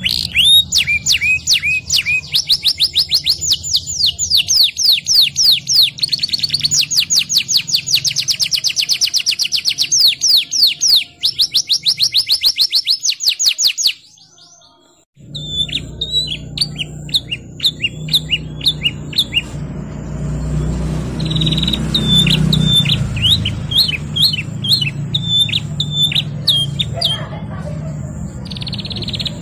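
Domestic canary singing: long rolling trills of very fast repeated notes for the first half. After a short break about halfway, it switches to a series of sharper, spaced repeated notes over a low background rumble.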